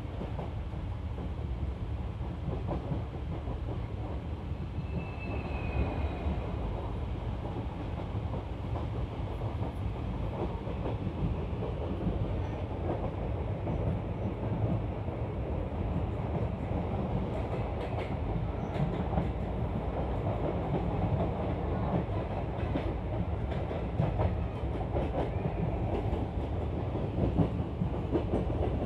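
Express train coaches running at speed, heard from an open coach doorway: a steady rumble of wheels on the rails with scattered clicks, while running alongside a standing train on the next track. A brief high-pitched tone sounds about five seconds in.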